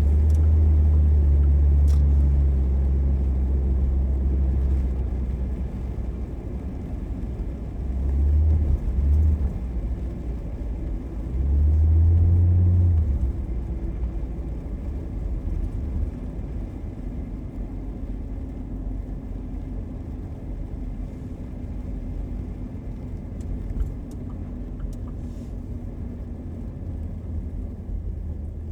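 Car driving along: a steady low road-and-engine rumble that swells much louder three times, over the first few seconds, about a third of the way in, and again soon after.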